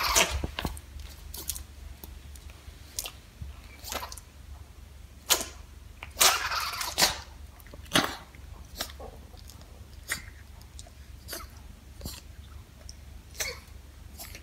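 Dogs sneezing: about a dozen short, sharp sneezes spread through, with one longer burst of about a second a little after the middle.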